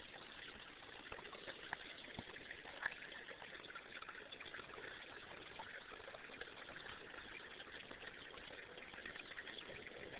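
Faint, steady trickling and babbling of a small stream running with rain runoff, with a couple of brief sharper clicks about two and three seconds in.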